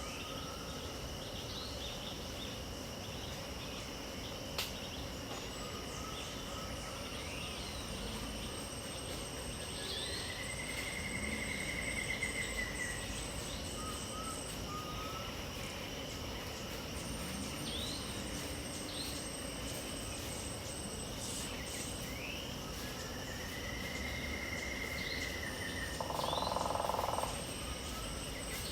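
Dawn wetland ambience: insects trilling steadily at several high pitches, with birds calling over them. A trilled arching note about two seconds long comes twice, short chirps are scattered throughout, and a harsher, lower call sounds near the end.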